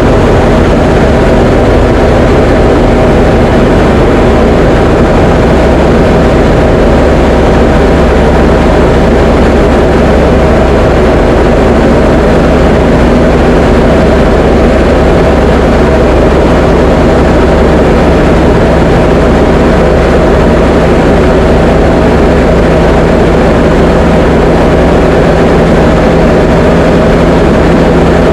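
Diamond DA20 light aircraft's piston engine and propeller running steadily in flight: a loud, constant drone that holds one pitch throughout.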